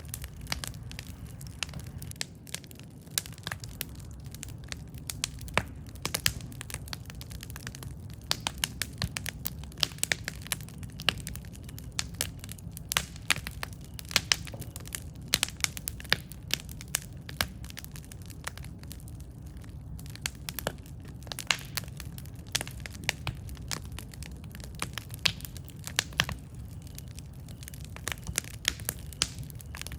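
Campfire burning: wood crackling and popping in quick, irregular snaps over a steady low rumble of the flames.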